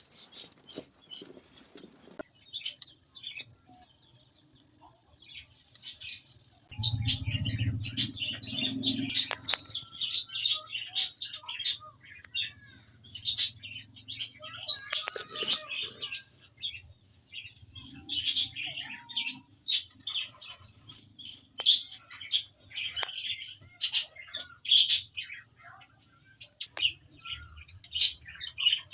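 Budgerigars chirping and chattering: many short, sharp chirps in quick irregular succession.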